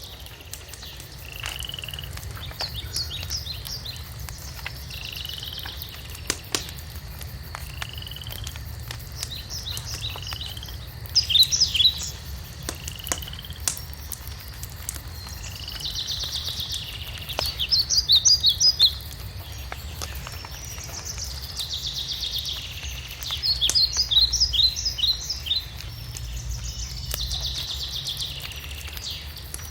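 Birds calling: short falling slurred notes every couple of seconds and loud bursts of rapid chattering notes, over scattered crackles from a fireplace fire and a low rumble.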